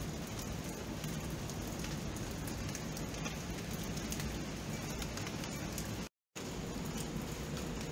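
Steady rain falling, a dense even hiss with many sharp individual drop hits. The sound cuts out completely for about a quarter of a second around six seconds in, then resumes.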